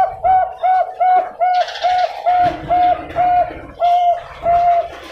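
Zebra dove (Bangkok perkutut) cooing: a rapid run of short, even-pitched coo notes, about three a second at first, slowing to wider-spaced notes in the second half.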